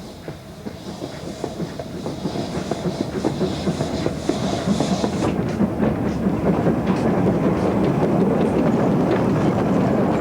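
Narrow-gauge steam train hauled by the 1953 Bagnall locomotive Gellert, running with a quick stream of rattling clicks from wheels and stock, growing steadily louder as it draws nearer.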